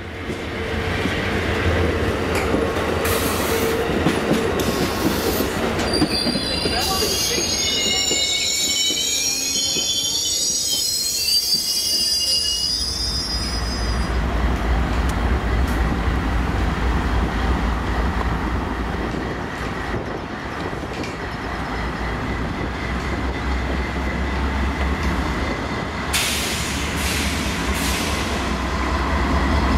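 Amtrak Superliner passenger cars rolling past on the rails, their wheels squealing in several wavering high tones for a few seconds midway. From about halfway on, the low, steady rumble of a CSX freight train's diesel locomotives, a pair of GE AC44CWs, as they approach.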